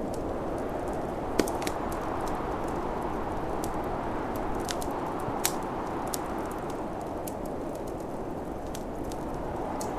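Wood fire in a fireplace crackling, with scattered sharp pops, the loudest about one and a half seconds in, over a steady rushing snowstorm wind.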